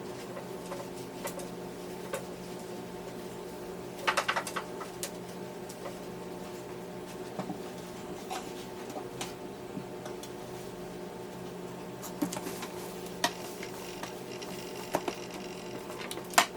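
Steady low hum of a household appliance. Over it come scattered clinks and knocks of household items being handled: a quick cluster about four seconds in, a few more later, and a sharp knock near the end.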